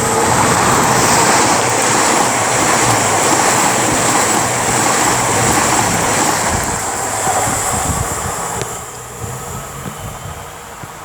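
Two coupled Class 220 Voyager diesel multiple units running through the station, a loud steady rush of wheel and air noise that fades away near the end.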